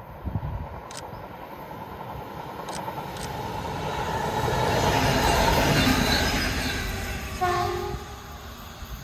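A train passing, its rumble building to a peak and then fading, with a short horn blast near the end.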